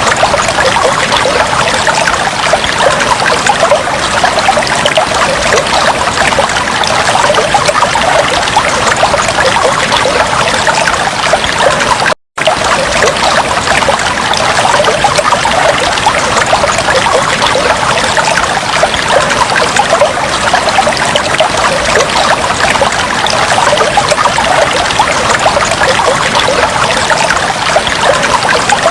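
Fish tank water trickling and bubbling steadily, a dense splashing patter. It drops out for a split second about twelve seconds in.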